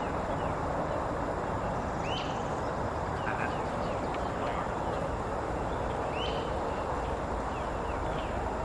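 Steady outdoor background noise with a few short bird chirps scattered through.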